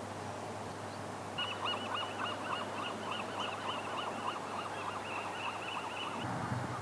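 A bird calling in a rapid series of short, arched notes, about four or five a second, starting about a second and a half in and stopping near the end, over steady outdoor background noise.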